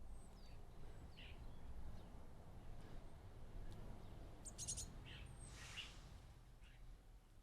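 Small garden birds chirping faintly at a feeder: scattered short calls and a quick high twitter a little past halfway, over a low steady rumble.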